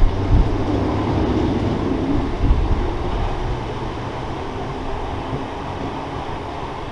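Electric multiple-unit train running along the platform, a steady rumble with a few low thumps near the start and about two and a half seconds in, easing off gradually in the second half.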